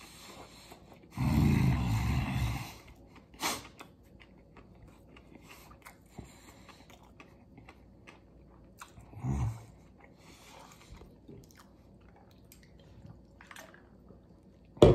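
Close-up chewing of a mouthful of veggie burger, with small wet mouth clicks. A louder low sound of about a second and a half comes about a second in, a shorter one around nine seconds, and a sharp knock just before the end.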